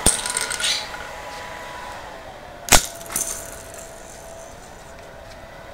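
Parts of a homemade Rube Goldberg contraption knocking and clinking: two sharp clacks about two and a half seconds apart, each followed by a brief rattle, over a faint steady hum.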